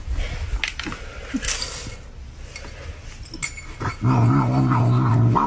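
A pet animal's drawn-out, steady vocal sound begins about four seconds in and runs loud, following quieter shuffling with a few clicks.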